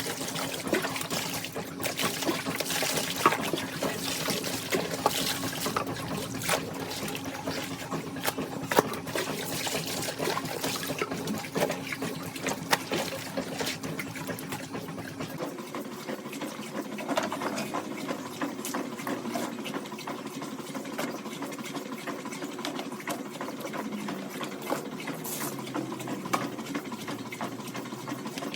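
Washing machine running, with water splashing and filling in the drum over a steady motor hum. About halfway through, the hum shifts to a higher pitch.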